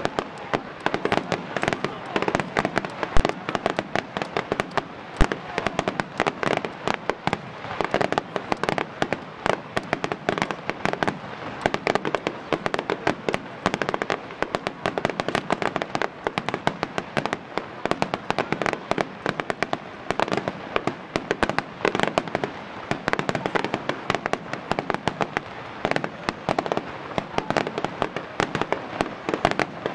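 Large Japanese starmine fireworks barrage, many shells fired in rapid succession: a continuous, dense run of overlapping bangs and crackles with no let-up. One report about three seconds in is louder than the rest.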